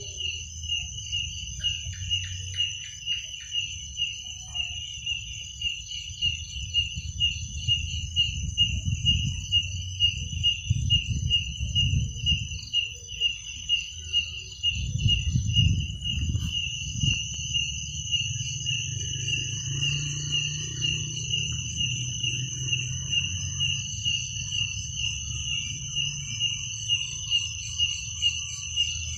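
Crickets chirping at night: one steady pulsing chirp with a higher, continuous trill alongside it. A low rumble underneath grows louder for a while in the middle.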